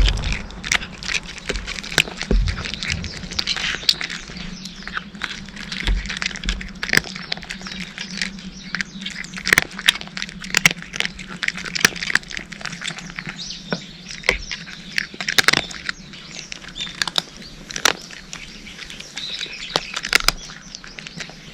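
Cats chewing dry kibble: many sharp, irregular crunches, several a second, over a low steady hum.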